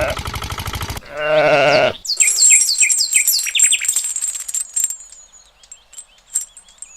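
Fast, even ticking, then a single bleat with a wavering pitch about a second in, followed by a run of quick high, falling chirps that thin out into scattered faint clicks.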